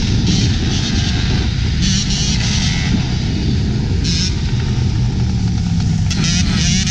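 Two-stroke dirt bike engine running steadily, with a short rise in pitch near the end as it revs.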